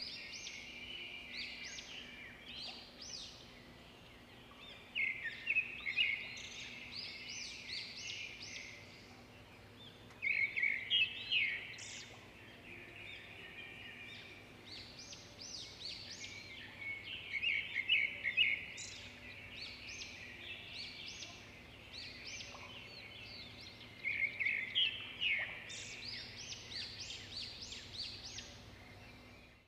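Small birds chirping and trilling in repeated quick clusters over a faint steady hum.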